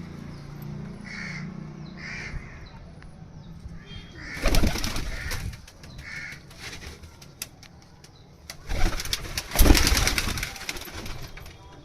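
Domestic pigeons cooing low and steadily, with two loud rustling bursts of noise, one about four seconds in and a longer one near the end.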